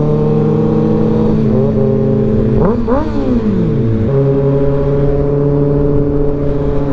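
Motorcycle engine running steadily at highway speed, with low road and wind noise under it. About three seconds in, a pitch rises and falls, and about a second later the engine note settles at a steady lower pitch.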